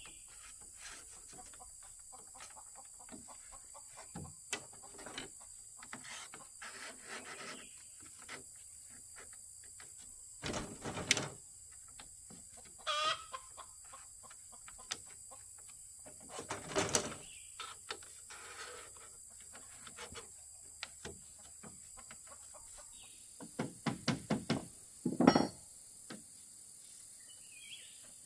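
Chickens clucking and calling at intervals, with a quick run of clucks near the end, among scattered sharp knocks, over a steady high whine.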